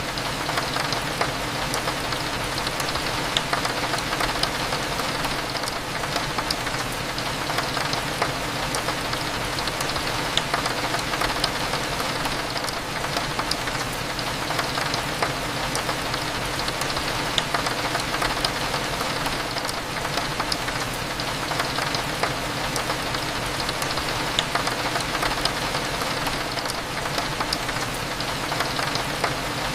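Steady rain pattering on a window, with many small drop ticks scattered throughout. A faint low steady hum lies beneath it.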